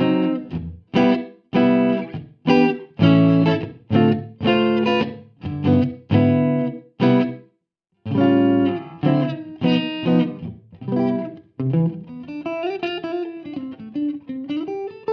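Electric guitar played through the Neural DSP Mesa Boogie Mark IIC+ Suite amp-modelling plugin: short chord stabs about twice a second, a brief stop about halfway, then a sustained single-note lead line with bends and vibrato near the end.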